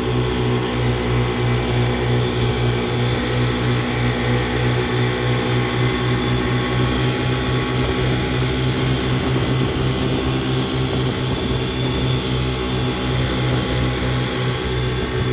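Motorboat engine running steadily under way, a constant low pulsing drone with a hiss over it.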